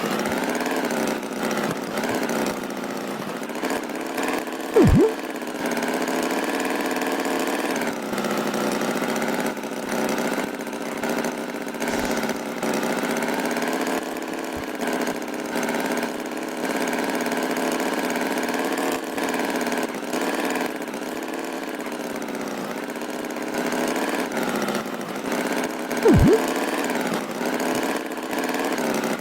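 Cartoon tractor engine sound effect running steadily at a low idle-like chug. Two short, loud sweeps falling sharply in pitch cut in, about five seconds in and near the end.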